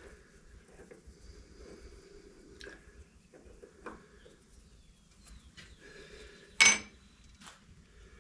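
Quiet bench work: a few faint clicks and taps of small parts and tools being handled, then one sharp clink about six and a half seconds in.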